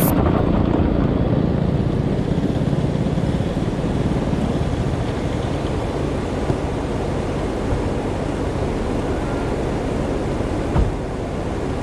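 Heavy wind rushing over the microphone on a moving Coleman CT200U mini bike, its small engine faintly audible underneath. A single knock about eleven seconds in.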